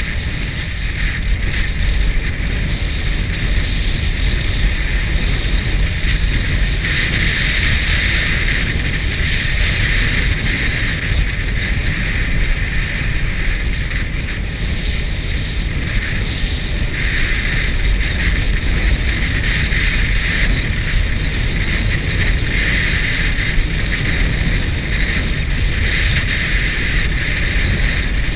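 Wind rushing over the microphone of a moving bike, a steady low rumble, with a high hiss that swells and fades every few seconds.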